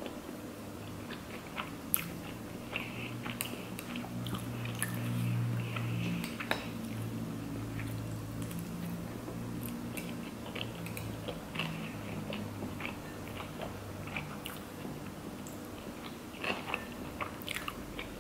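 Close-up chewing of sushi rolls: soft chewing with small crunches and scattered sharp mouth clicks, over a low hum that swells from about four to seven seconds in.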